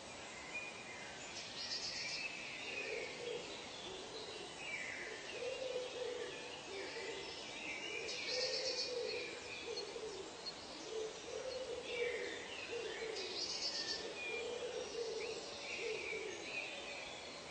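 Bird calls: a run of low calls repeating about once or twice a second, under higher sliding calls and a few short, high chirping trills.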